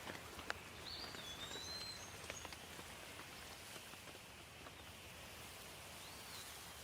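Light, steady rain with a few distinct drops hitting close by. A bird gives short whistled calls about a second in and again near the end.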